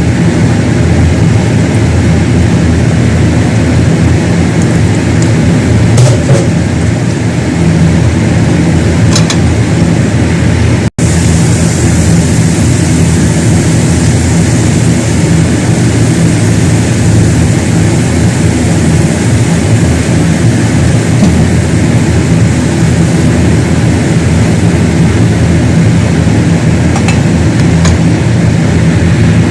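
A steady, loud mechanical hum, like a motor or fan running, with a few faint clicks. It cuts out for an instant about eleven seconds in.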